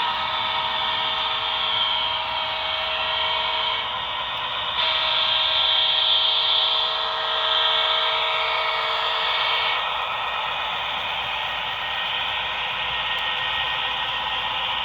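HO-scale model passenger train running on the layout: a steady mechanical running noise, with a few steady tones over it for the first ten seconds that shift about five seconds in, then fade out.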